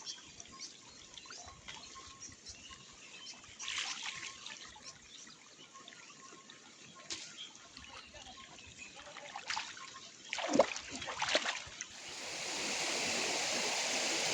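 Shallow stream water trickling, with scattered small splashes, a cluster of louder ones about ten seconds in. Near the end, a steady rush of flowing water takes over.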